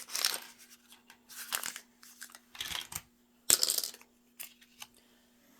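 Small plastic wrapper being crinkled and torn open by hand in several short bursts, the loudest about three and a half seconds in, followed by a few light clicks of small plastic pieces.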